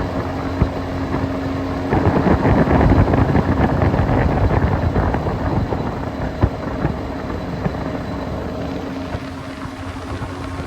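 A boat's outboard motor running steadily under way, with wind buffeting the microphone; the wind noise eases off toward the end.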